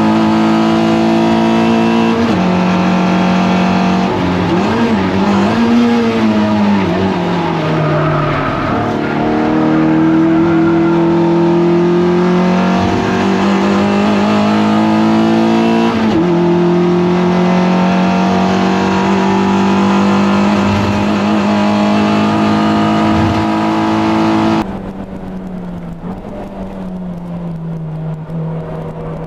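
Toyota MR2 race car engine under hard load, holding a steady high note with a dip and recovery in pitch about eight seconds in. Near the end the sound abruptly turns quieter and duller while the engine note carries on lower.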